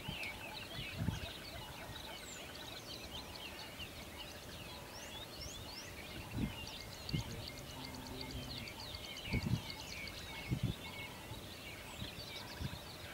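Many small birds chirping and peeping at once in a dense, continuous chorus, with a few dull low thumps scattered through.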